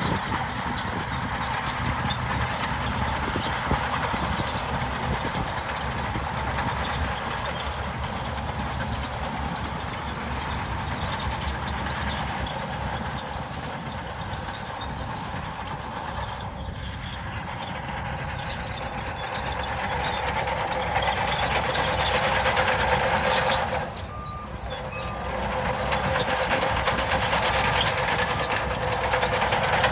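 Heavy diesel earthmoving machinery running steadily, its engine working harder about two-thirds of the way in. Near the end a reversing alarm beeps at an even pace.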